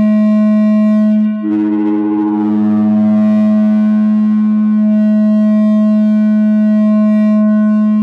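No-input mixer feedback drone: a 2-channel mixer looped back on itself through an effect pedal, holding a steady electronic tone with a stack of overtones. About a second and a half in, the sound dips briefly, then comes back thicker and rougher with more overtones.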